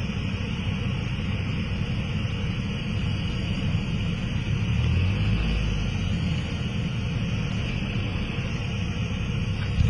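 Cabin noise of a Cessna 172SP gliding with its four-cylinder Lycoming IO-360 engine throttled back to idle for a simulated engine failure: a steady drone of idling engine and rushing air. A low rumble swells briefly about halfway through.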